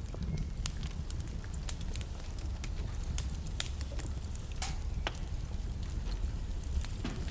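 Wood fire burning in a fireplace: irregular crackles and sharp pops of burning logs over a steady low rumble of the flames, with one louder pop about halfway through.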